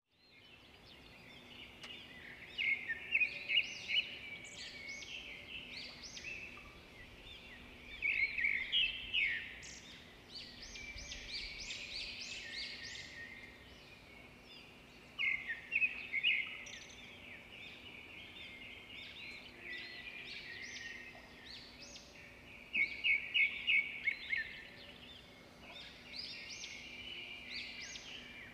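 Small birds chirping and singing, with louder bursts of rapid high trills every several seconds, over a faint steady hum.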